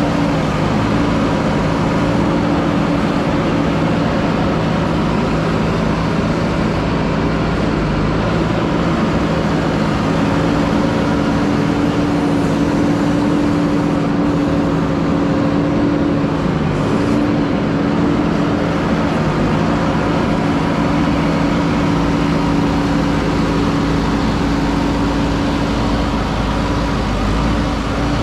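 JCB 3DX backhoe loader's diesel engine running steadily while working, its pitch dipping briefly about two-thirds of the way through.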